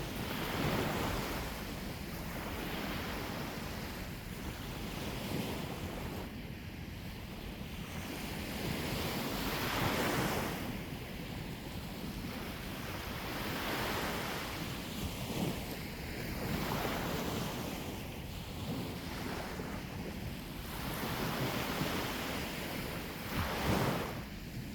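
Sea waves breaking on the shore, each wash swelling and fading every three to four seconds, with wind rumbling on the microphone.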